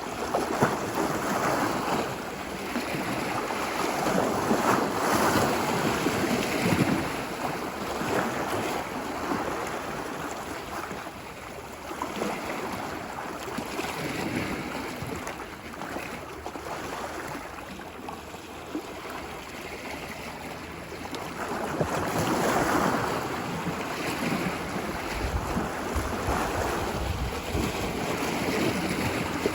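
Ocean waves washing onto a beach, the surf swelling and fading in slow surges, with the biggest swells about five seconds in and again around twenty-two seconds in.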